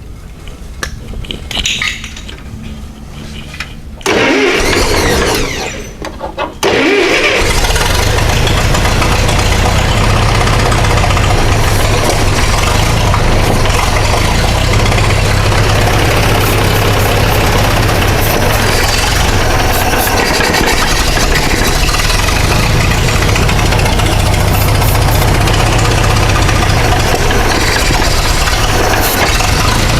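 Massey Ferguson 65 tractor engine cranked over by the starter, starting about four seconds in. It catches about seven seconds in and settles into a steady run. Ether has just been called for as a starting aid.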